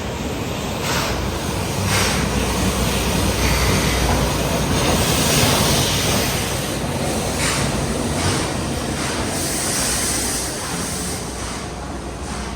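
SL Hitoyoshi steam-hauled train in motion: a steady rumble with rushing wind noise, swelling now and then.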